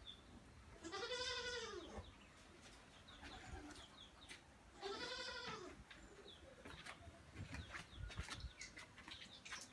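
A farm animal gives two drawn-out calls about four seconds apart, each rising and then falling in pitch.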